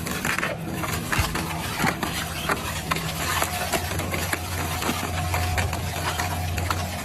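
Double-shaft shredder running with a steady low motor hum, with frequent sharp cracks and snaps as material breaks between its cutters.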